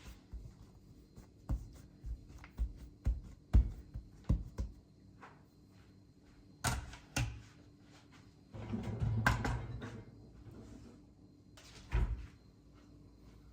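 A string of light knocks and thuds, with a longer scraping or rustling noise about two-thirds of the way through and one last thump near the end.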